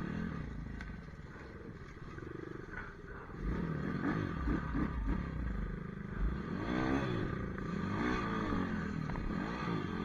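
Pit bike engine revving up and down over and over as it is ridden, its pitch rising and falling in repeated sweeps from a few seconds in.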